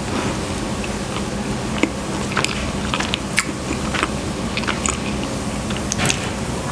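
Chewing soft chocolate-filled pandesal bread, with many small mouth clicks scattered irregularly throughout.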